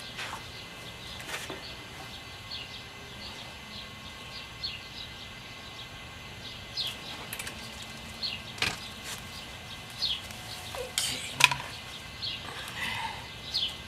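Birds chirping: many short, repeated, downward-sliding chirps, with a few sharp knocks, the loudest about 11 seconds in.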